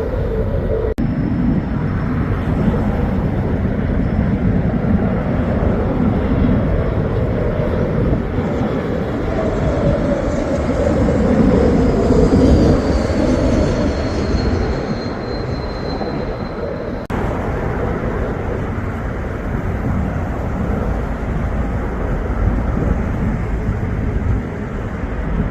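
Jet airliner engines passing close overhead: a loud, continuous rumble that swells about halfway through, with a thin high whine sliding down in pitch as the aircraft goes by. The sound breaks off abruptly twice, where the footage is cut.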